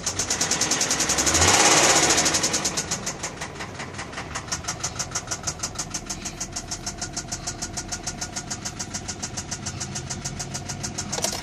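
2002 Nissan Maxima's 3.5-litre V6 running with a loud, rapid, even knocking, about six or seven knocks a second. The engine rises briefly in speed about two seconds in, then settles back to idle, and the knocking stops near the end. The owner links the knock to the engine having run without oil, with the timing chain or lifters suspected.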